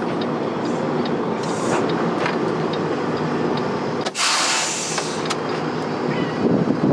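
Semi-truck diesel engine running steadily, heard from inside the cab. About four seconds in comes a short, loud hiss of compressed air from the truck's air system.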